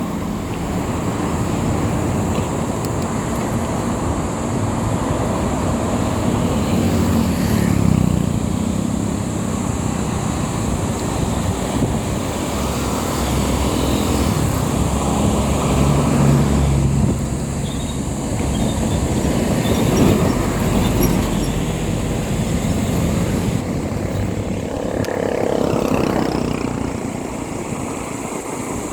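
Motorcycle being ridden on a road: the engine runs steadily, its pitch shifting slightly with speed, under continuous road and wind noise.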